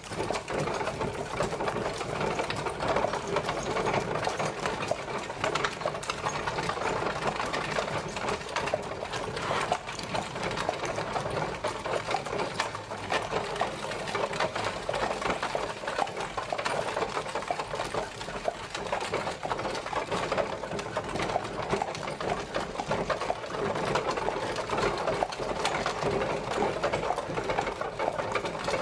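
Horse-drawn carriage on the move: a steady, dense rattling clatter of the carriage and its wheels that runs on without a break.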